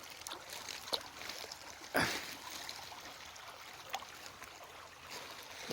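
Creek water trickling steadily, with a few brief knocks, the loudest about two seconds in.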